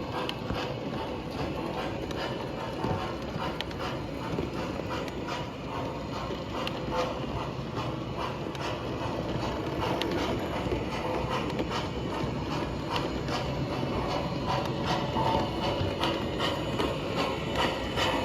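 MTH model of the C&O Greenbrier 4-8-4 steam locomotive running on model track: a steady mechanical rattle of motor, gears and wheels, with many small clicks, getting slightly louder near the end.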